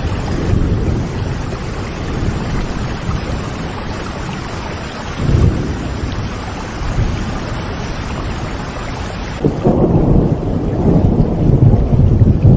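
Steady rain with rolling thunder: a low rumble swells about five seconds in, and a longer, heavier rumble takes over from about nine and a half seconds in while the hiss of the rain thins.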